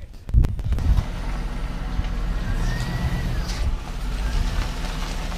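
A few knocks, then a car's engine running with a steady low rumble as the vehicle gets under way.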